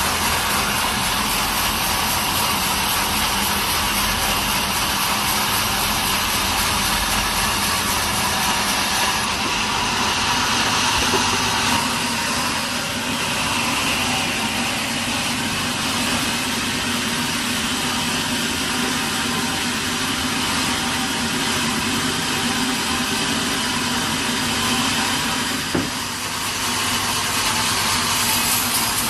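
Sawmill machinery running steadily: a dense, even mechanical noise with a low hum underneath and one sharp click near the end.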